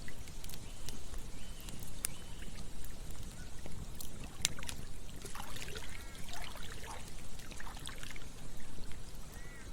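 Campfire crackling, with a few sharp pops about two and four seconds in, over a steady low rush like running water. Short chirps come in the middle and near the end.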